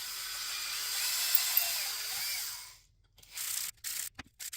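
Electric drill boring through wood to finish holes the CNC did not cut all the way through; it runs for almost three seconds with its motor pitch wavering and dipping under load, then runs in two short bursts.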